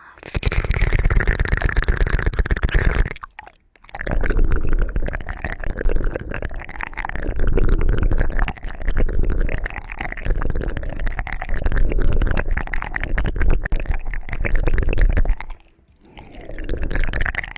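Close-miked ASMR sounds: dense, fine crackling and rubbing right at the microphone, with a low rumble under it. It comes in long stretches, breaking off briefly about three seconds in and again near the end.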